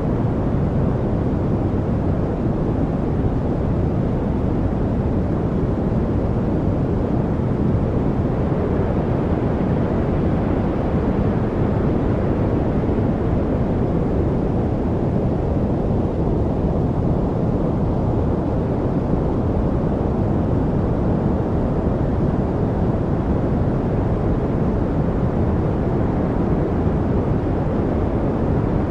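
Steady, unchanging noise track of the kind played as a study aid, deep and rushing rather than hissy. No bird calls or other separate sounds stand out.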